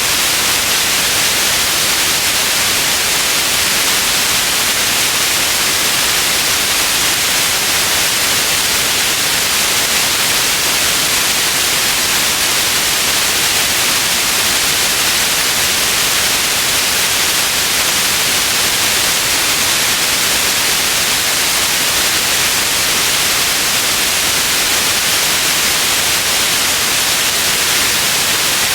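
Steady white noise, an even hiss that never changes, brightest in the high frequencies.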